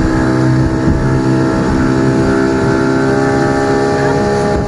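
Motorboat engine running steadily at speed, towing a banana boat.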